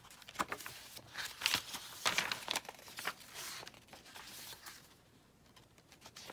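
Paper pages of a thick, stuffed handmade junk journal being turned and handled, rustling and crinkling in a run of short bursts that are loudest between about one and three seconds in and die down near the end.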